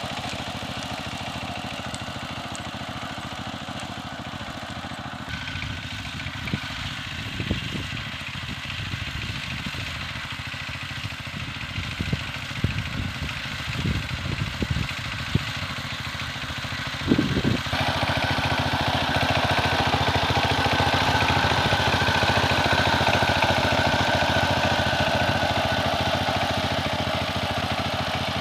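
Power tiller engine running steadily, with scattered knocks in the middle stretch; about 17 seconds in it gets louder and stays so.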